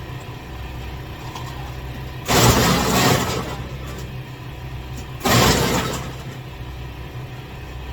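Ice shaver grinding ice in two bursts of about a second each, a few seconds apart, over a steady low hum.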